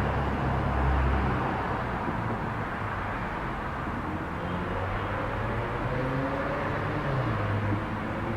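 Steady outdoor background rumble with the low hum of a distant motor vehicle engine that shifts slightly in pitch.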